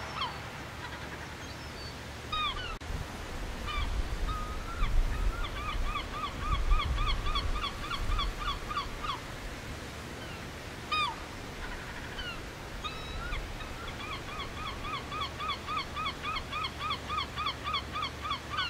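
A bird calling in quick runs of short rising-and-falling notes, about three a second, with a few single calls in between, over a low steady rumble.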